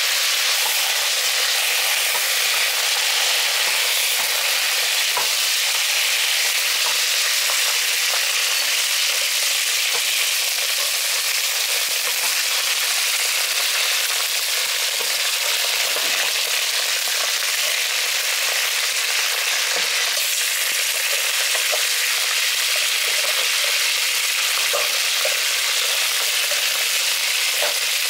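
A whole chicken frying in hot pig fat in a deep pot: a steady sizzle with small crackles and pops scattered through it.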